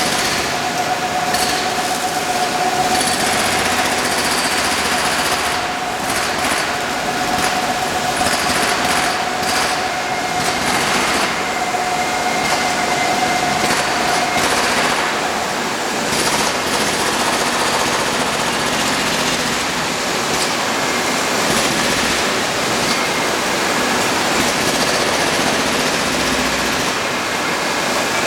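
Induction hardening machine running: loud, steady machine noise with a rough rattle, and a steady whining tone that stops about halfway through.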